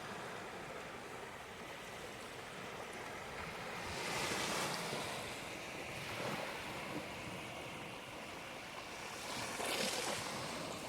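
Ocean surf washing up the beach: a steady hiss of breaking water that swells about four seconds in and again near the end.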